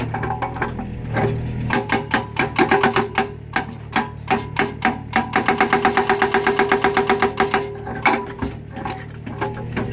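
Hydraulic breaker hammer on a mini excavator pounding concrete in rapid, even blows, fastest and most regular in the second half, over the steady drone of the excavator's engine.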